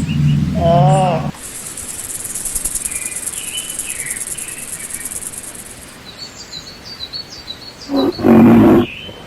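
Animal calls in a natural soundscape: a wavering pitched call in the first second, then a high steady insect buzz with birds chirping, and a short loud lion-like roar about eight seconds in.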